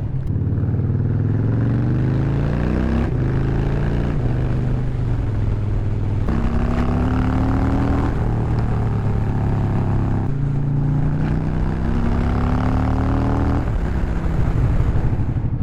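Harley-Davidson V-twin motorcycle exhaust under way, pulling hard: the engine pitch climbs in three pulls with drops between, as the rider works the throttle through the gears.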